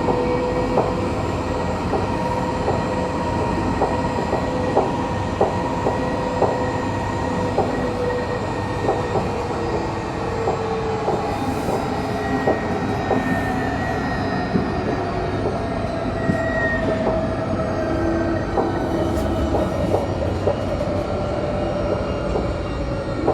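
Tram running along its track, heard from on board: a steady rumble with a motor whine that drifts and falls slowly in pitch over the second half, and regular clicks from the wheels on the rails a little over once a second.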